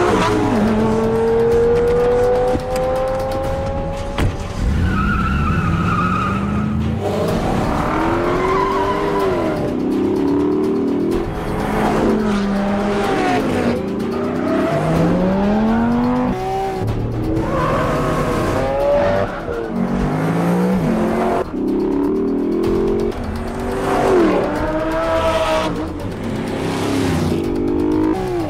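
Car engines revving hard, rising in pitch and dropping back again and again through the gears, with tyres squealing.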